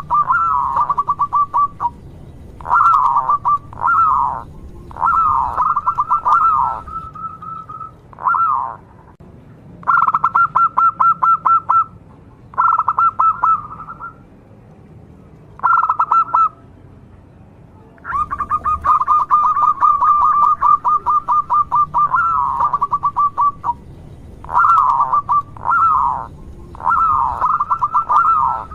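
Zebra dove (perkutut) singing over and over. Each phrase is either a fast trill of rapid notes at a steady pitch or a short falling coo, with pauses of a second or two between phrases.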